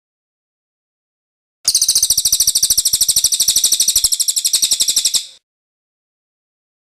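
Cililin bird's rolling trill: one high, rapid run of evenly repeated notes, about a dozen a second, starting about two seconds in and lasting about three and a half seconds.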